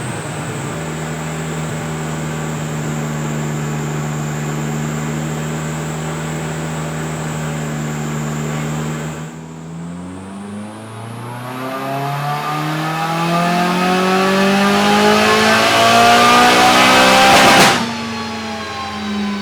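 Turbocharged Toyota 3S-GE Beams four-cylinder engine in a Maserati Biturbo running on a dyno: it holds a steady engine speed for about half the time, dips briefly, then revs up in a long, rising full-load pull that grows louder and cuts off suddenly near the end before settling back to a steady run.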